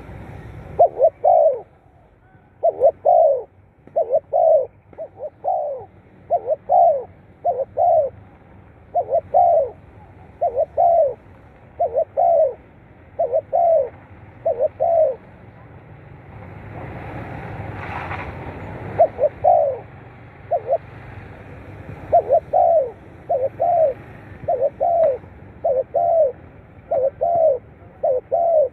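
Spotted dove cooing over and over, short low notes in repeated phrases. About midway a rushing noise swells and fades while the cooing pauses.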